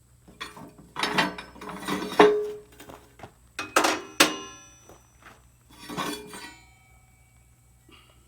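Metal objects clanking together: a series of sharp knocks, several of them leaving a short metallic ring, in clusters about a second in, around two seconds, near four seconds and around six seconds.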